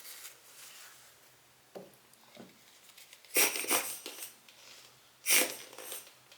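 Tissue rubbed over a lens's glass element while cleaning it: a few faint rubs, then two louder bursts of rustling wiping, each under a second, in the second half.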